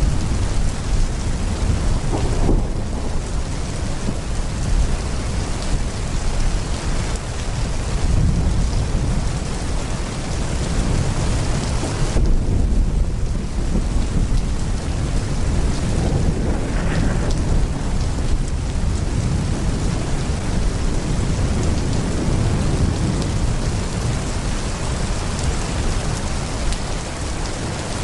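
Heavy rain pouring steadily, with deep rolling thunder rumbling underneath.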